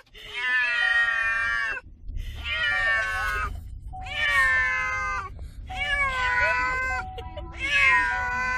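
A domestic cat meowing: about five long, drawn-out meows in a row, each lasting over a second, with short pauses between them.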